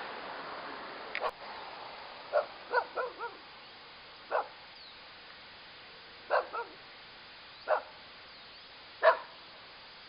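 A dog barking: about ten short barks, some in quick runs of two or three, spread over several seconds, with the loudest near the end.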